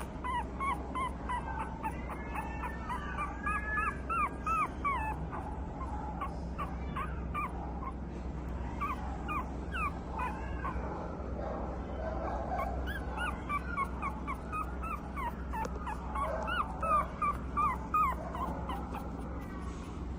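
Boston Terrier × Pug mix puppy whimpering and yipping in many short, high calls, coming in clusters.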